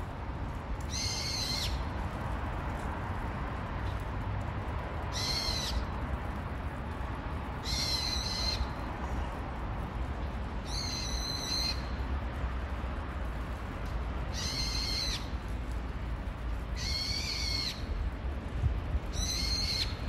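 A small songbird calling loudly from a perch: seven shrill calls, each about half a second long, repeated every two to three seconds.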